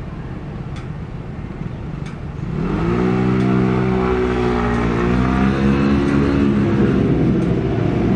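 A motor vehicle's engine close by, coming in about two and a half seconds in with a short rise in pitch, then running on steadily over low street rumble.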